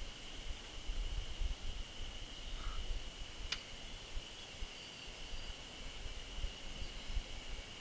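Steady high-pitched insect trilling, an unbroken drone, over an uneven low rumble, with one sharp click about three and a half seconds in.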